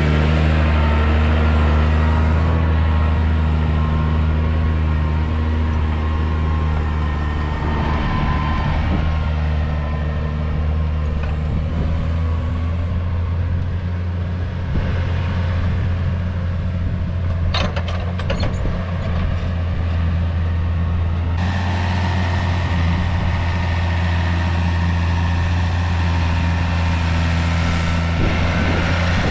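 Diesel engine running steadily and loudly, with a short run of sharp clicks or rattles a little past the middle.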